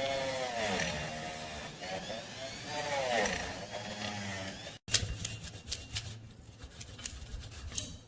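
Tool work on rusted metal parts. First comes a squealing rub whose pitch swings up and down with each stroke; then, after a cut, a quick series of scraping clicks.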